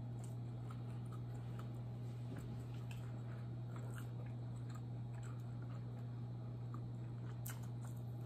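Close-miked chewing of tandoori chicken, with small wet mouth clicks throughout and a sharper click near the end, all over a steady low electrical hum.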